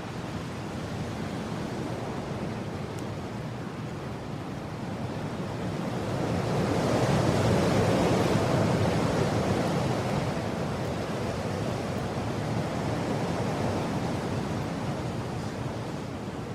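Wind blowing in a steady rush that swells into a stronger gust about six seconds in, peaks for a few seconds, then eases back.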